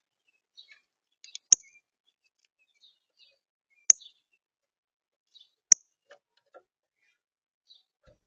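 Small birds chirping with short, high, scattered calls, punctuated by three sharp clicks spaced about two seconds apart that stand out as the loudest sounds.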